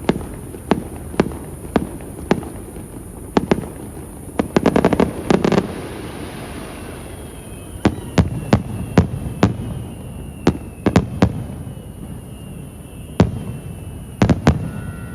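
Aerial fireworks shells bursting one after another in a stream of sharp bangs, with a rapid-fire cluster of bursts about five seconds in.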